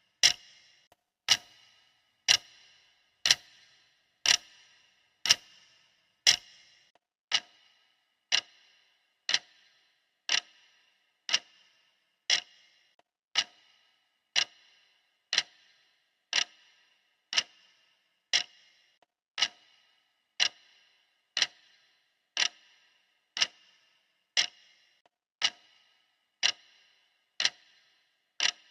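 Clock ticking steadily at one tick a second, each tick a sharp click with a brief ring, timing a countdown.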